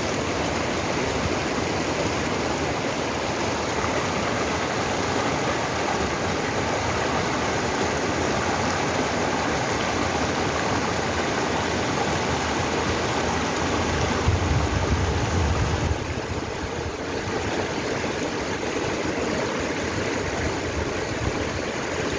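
Mountain stream running steadily over rocks, a constant rush of water. About two-thirds of the way through, a brief low rumble rises over it for a couple of seconds.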